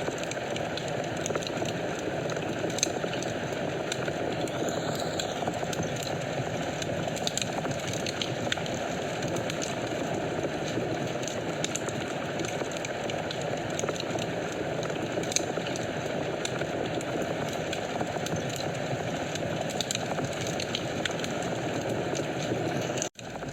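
Wood fire burning in a fireplace: a steady low rush of flames with scattered small crackles and pops. The sound cuts out briefly about a second before the end.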